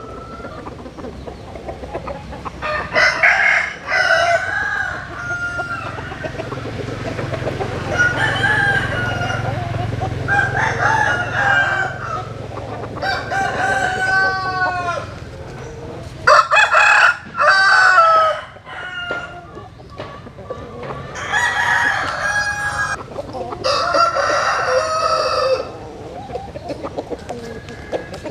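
Several roosters crowing one after another, some calls overlapping, with hens clucking between the crows.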